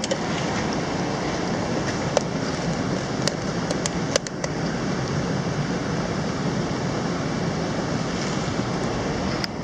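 Mountain stream water rushing steadily, with a few light sharp clicks about two to four seconds in.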